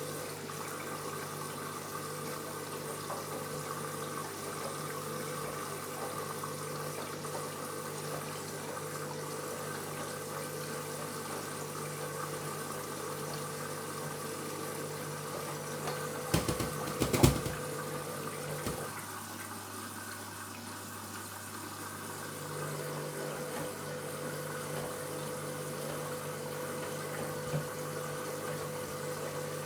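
Washing machine at the start of a wash: water hissing in as it fills while the drum motor hums steadily. A few knocks come just past the middle, then the motor hum stops for about three seconds and starts again.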